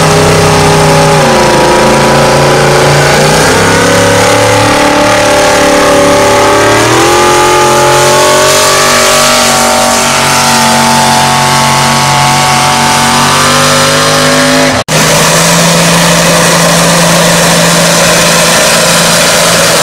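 Engine of a pulling vehicle running hard and loud under load during a pull, its pitch wavering and stepping up. The sound cuts out abruptly for a moment about three quarters of the way through, then carries on loud and steady.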